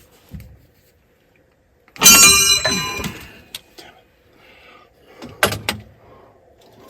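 A loud metallic clang about two seconds in, ringing on for about a second as it dies away, then a second, shorter metal knock a few seconds later.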